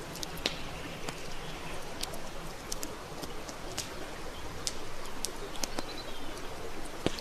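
Wood campfire burning, with a steady hiss and frequent irregular sharp crackles and pops, one louder pop near the end.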